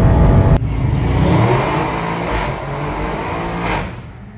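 Audi RS6's twin-turbo V8 engine at high revs, heard from inside the cabin. After an abrupt cut about half a second in, it pulls again with its pitch rising, then eases off and fades near the end.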